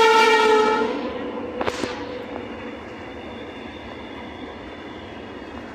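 A train horn sounding one steady note that stops about a second in. After it comes the steady running noise of a moving passenger train, with one sharp knock a little under two seconds in.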